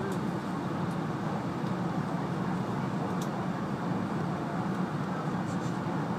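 Steady rumble of an E2-series Shinkansen train running on the line, heard from inside the passenger car, with a faint tick about three seconds in.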